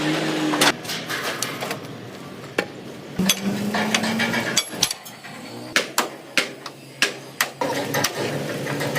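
Hammer striking metal: irregular sharp knocks, a dozen or so spread through, with brief steady tones in between.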